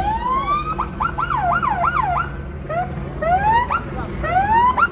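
Police car siren sounding and switching patterns: one rising wail, then a fast yelp swinging up and down about three times a second, then short rising whoops that each cut off sharply. A steady low rumble lies underneath.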